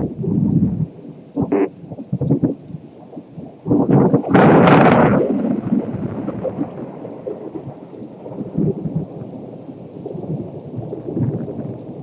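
Thunder cracking and rumbling in a lightning storm, with one loud sharp crack about four seconds in that rolls off into a long rumble, and smaller crackles before it.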